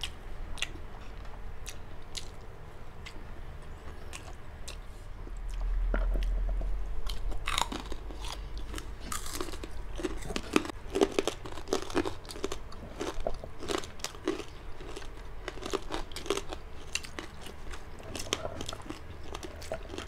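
Close-miked crunching and chewing of crispy deep-fried pork chicharon bagnet, with many sharp crisp crunches as the pieces are bitten and chewed. A brief low rumble comes about six seconds in.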